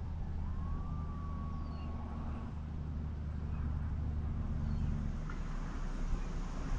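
Steady low hum of an idling vehicle engine, which thins out about five seconds in, with a drawn-out whistle-like tone near the start and a few faint high chirps.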